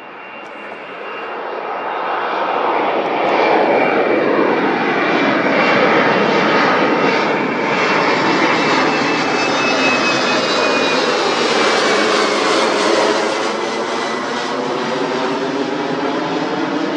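Airliner's engines passing close by, a loud roar that swells over the first few seconds, with a high whine slowly falling in pitch as the aircraft goes past.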